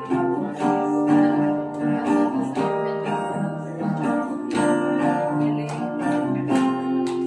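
Acoustic guitar strummed in a steady rhythm of about two strokes a second, ringing chords that change as the song moves along.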